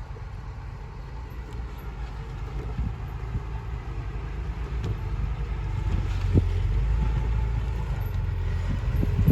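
Heavy diesel engine of earthmoving equipment running with a deep rumble that grows louder as the machine draws closer, with a knock about two-thirds of the way through and a few clanks near the end.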